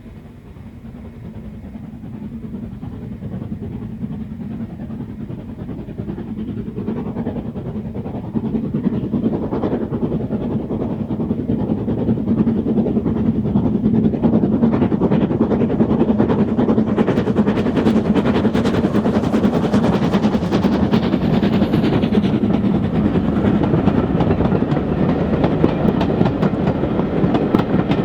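Steam-hauled train approaching, growing louder over the first dozen seconds, then running past close by with the clatter of its wheels over the rail joints.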